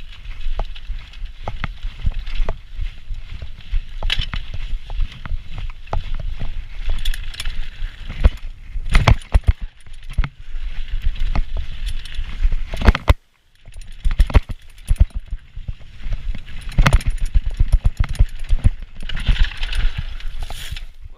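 Hardtail mountain bike, a Diamondback Heist 2.0, being ridden over rough trail: irregular clattering and knocking of the chain and frame over bumps, with wind rumbling on the microphone. The sound cuts out briefly about thirteen seconds in.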